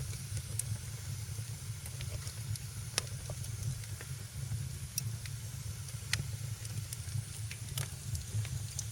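Wood fire crackling in a fireplace: irregular sharp pops and snaps, a few to a second, over a soft hiss and a steady low rumble.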